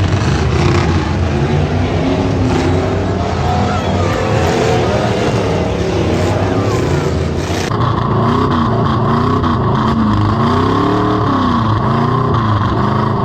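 Derby trucks' engines racing and revving, the pitch climbing and dropping over and over, with a harsh, noisy edge. The sound changes abruptly about eight seconds in, where a steadier high whine appears over the revving.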